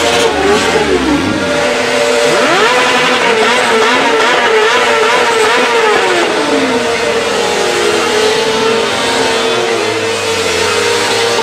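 V8 muscle car doing a burnout: the engine revving at high speed with its pitch swinging up and down, the spinning tyres screeching over it. It starts abruptly.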